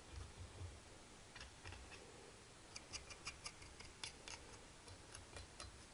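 Faint, irregular clicks and scratches of a hand tool scraping carbon deposits off a motorcycle cylinder head, in short scattered strokes from about a second and a half in until near the end.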